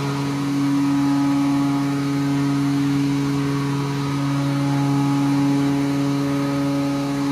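Ship's steering-gear hydraulic pump running with a steady hum, holding two strong low tones that do not change.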